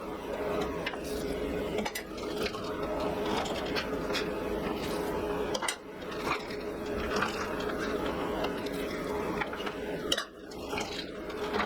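Steady hum of running workshop equipment, holding one constant tone, with scattered light metallic clinks.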